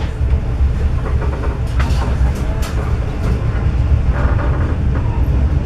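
Economy-class passenger coach of a moving train heard from inside: a steady low rumble with a few short, sharp clicks and knocks from the running gear.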